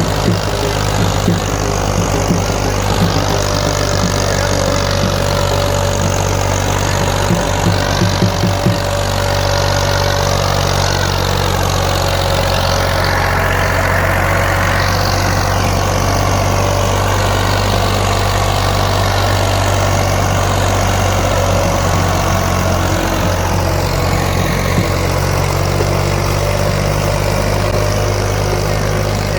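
Massey Ferguson 240 tractor's three-cylinder diesel engine running steadily as it pulls a disc harrow, with a constant low hum and a few short rattles about a quarter of the way through.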